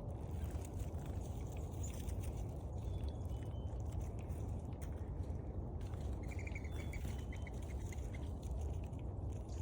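Steady low rumble of wind on the microphone, with faint small-bird calls: a short high note about three seconds in and a quick run of short notes from about six to eight seconds in.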